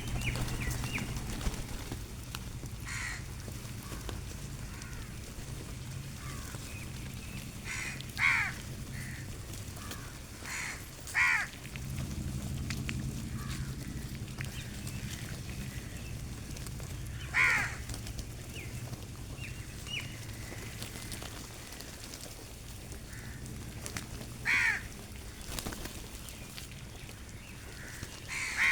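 Crows cawing now and then, about six separate calls several seconds apart, over a low steady background rumble.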